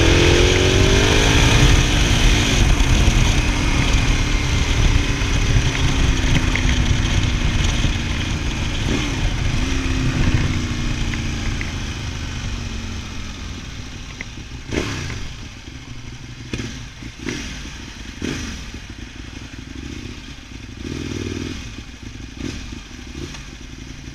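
Motorcycle engine revving and changing pitch through gear changes under heavy low rumble, then easing off as the bike slows. From about 14 seconds in the engine noise is much lower, and a scattering of sharp knocks and clicks comes through.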